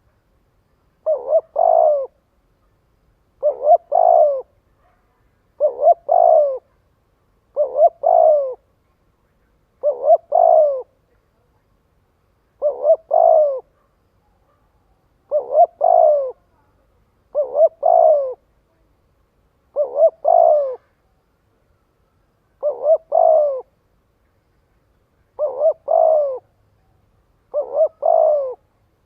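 Spotted dove cooing in a steady series of short phrases, each about a second long and made of a few quick notes, one every two to three seconds, twelve in all. This fast repeated cooing is a decoy call used to stir up captive wild doves and lure others.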